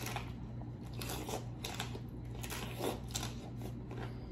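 Crisp fried tostada topped with shrimp ceviche being bitten and chewed close to the microphone, with repeated short crunches.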